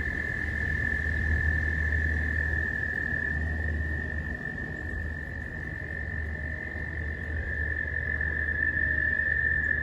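A chorus of pond frogs giving their mating calls: a continuous high-pitched trill that never breaks, its pitch shifting slightly as one caller overlaps another. A low rumble runs underneath.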